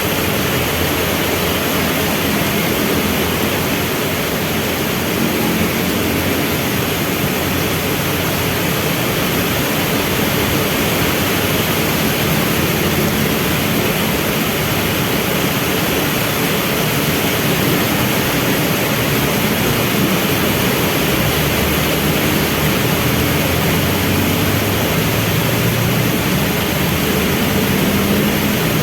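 Heavy rain falling steadily, with the low sound of vehicle engines running in traffic beneath it, growing stronger in the second half.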